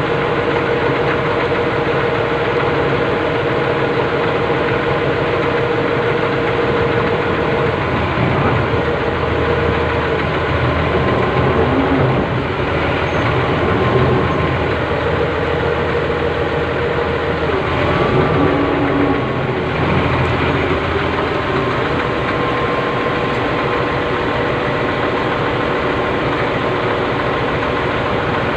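Excavator's diesel engine running steadily, with a steady whine over it that drops out and returns several times.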